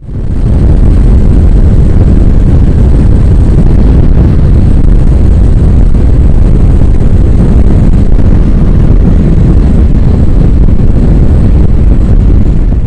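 Steady, loud wind roar and deep rumble on a motorcycle-mounted camera's microphone while riding, cutting off suddenly at the end.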